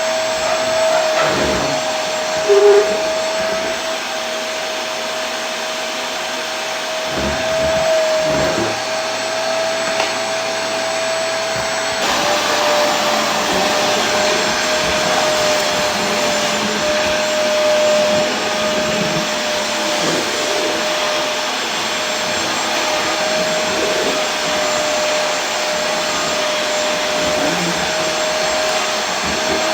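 Vacuum cleaner running continuously: a steady rush of air with a constant motor whine, which drops slightly in pitch about twelve seconds in. A brief louder blip sounds about two and a half seconds in.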